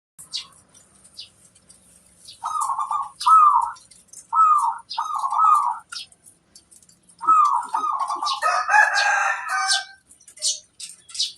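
Perkutut (zebra dove) cooing: series of short, bent staccato notes in two bursts of four and three. About eight and a half seconds in, a longer, rougher call from another bird overlaps, and faint high chirps sound throughout.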